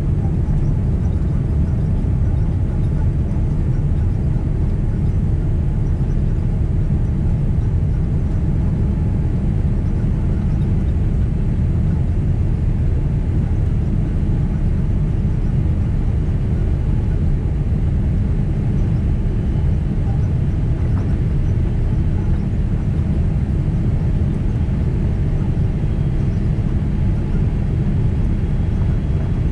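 Steady low rumble of cabin noise inside a Boeing 767 airliner, its engines and airflow running evenly.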